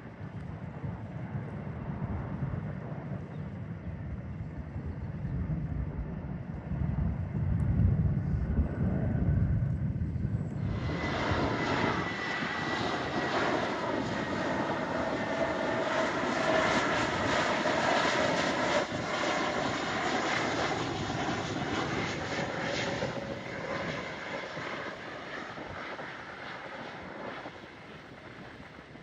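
Jet airliner's engines heard as it passes. A low rumble builds, then about ten seconds in the sound jumps up sharply into a loud roar with a steady high whine, which slowly fades near the end.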